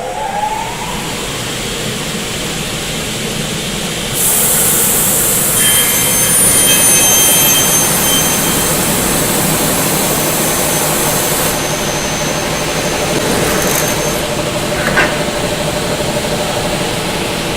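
Kingmac K20S double-head aluminium cutting saw: its blade motors rise in pitch as they come up to speed, then run steadily. About four seconds in, the twin blades feed out and cut an aluminium profile with a loud, high-pitched screech lasting about seven seconds. The motors keep running afterwards, and a short, sharp sound near the end fits the pneumatic clamps releasing the cut piece.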